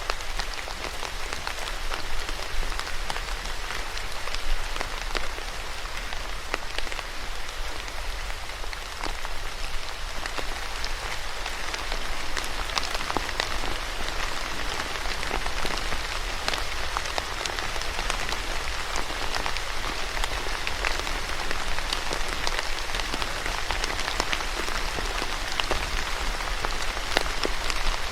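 Steady rain falling, a constant hiss with many individual drops pattering on a surface.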